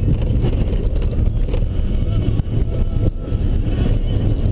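Ford Ranger pickup driving off-road: its engine and tyres give a steady, deep rumble.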